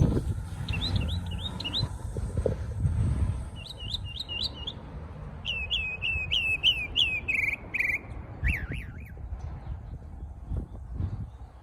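A songbird singing: several runs of quick, repeated whistled notes, each run a second or two long, ending with a few lower swooping notes. A low rumble sits under the song for the first few seconds.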